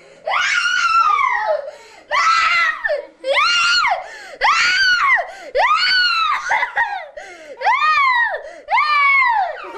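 Young child screaming and wailing in a tantrum: about eight loud, high-pitched cries in a row, each rising and then falling in pitch, with short gasps between them.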